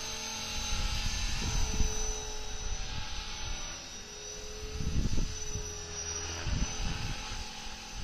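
Radio-controlled model helicopter flying: a steady mechanical whine from its motor and rotors holds an even pitch. Low rumbling gusts of wind hit the microphone about 1.5, 5 and 6.5 seconds in.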